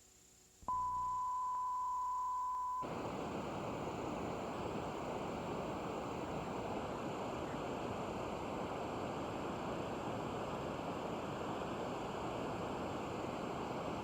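A TV station's sign-off: a steady, single-pitched test tone lasts about two seconds and cuts off abruptly into the even hiss of off-air television static once the transmitter shuts down.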